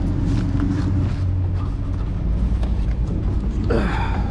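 Diesel engine of a semi truck idling with a steady low hum. Near the end comes a brief noisy burst with a falling tone.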